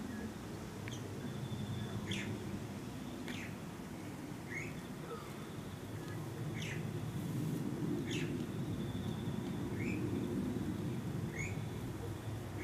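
Birds chirping: short high calls repeated every second or so, some sliding downward, with a faint high trill in places, over a steady low background rumble.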